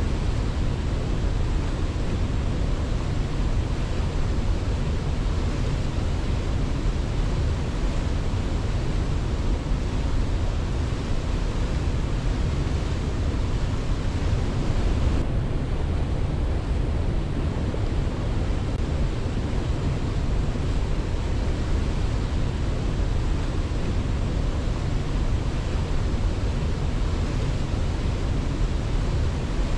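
Waterfall rushing, a steady, unbroken roar heavy in the low end with no birds or other events over it.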